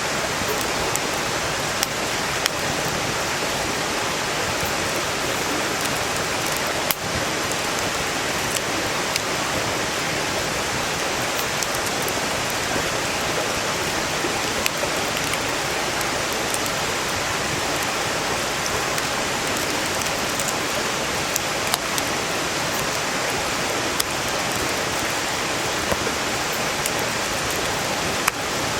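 Stream water rushing steadily beside a wood campfire, with scattered sharp crackles and pops from the burning firewood, one standing out about seven seconds in.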